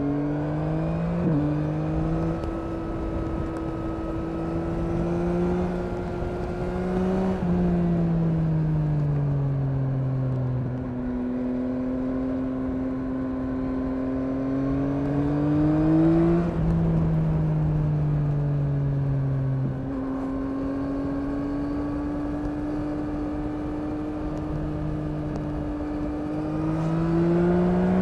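Yamaha MT-09's 890 cc three-cylinder engine running under way at fairly steady revs, its pitch dropping as the throttle eases off, climbing again, falling back, and rising once more near the end.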